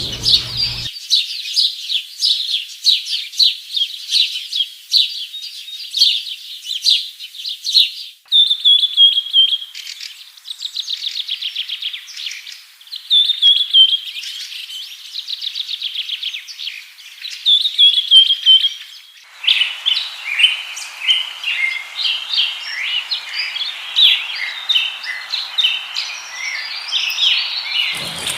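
Small birds chirping and trilling: first rapid high chirps, then repeated quick trills that fall in pitch, then a busier mix of varied chirps. The sound changes abruptly twice.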